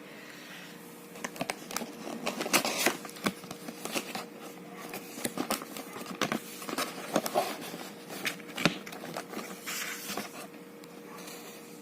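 Irregular rustling, scraping and clicking of objects being handled, over a steady faint hum.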